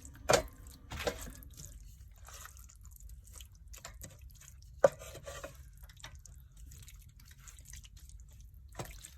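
A spoon stirring wet beef goulash of ground beef and tomatoes in an electric skillet, squelching, with a few sharp knocks of the spoon against the pan.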